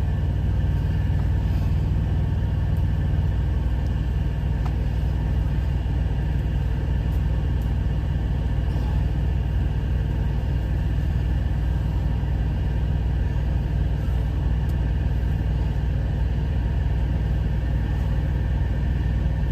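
Steady low rumble of an idling truck engine, with a few faint clicks over it.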